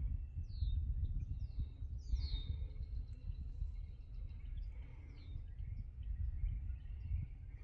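Birds calling: about four short high notes that slide downward, the loudest about two seconds in, with fainter thin high notes between, over a constant low rumble.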